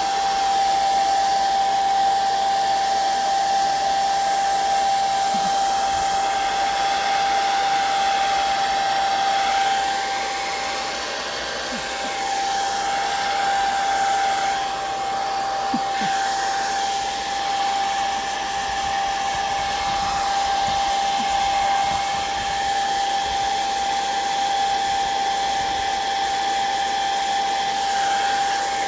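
Handheld electric dryer running steadily, a constant whine over rushing air, blowing on wet watercolour and ink to dry it. Its loudness dips slightly for a few seconds about ten seconds in.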